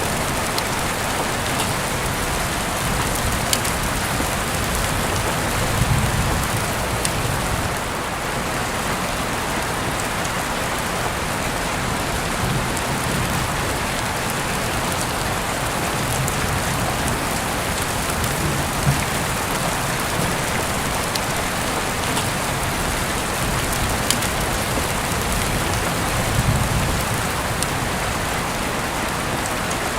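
Steady rain falling on a surface, an even hiss with scattered sharp ticks of individual drops. Soft low rumbles swell about six seconds in and again near the end.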